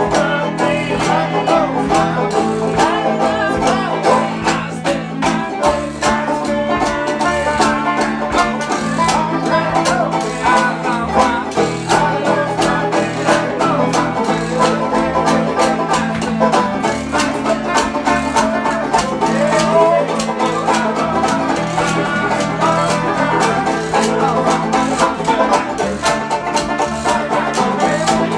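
Bluegrass band playing an instrumental take, a banjo picking fast runs of notes over strummed guitar and a steady bass line.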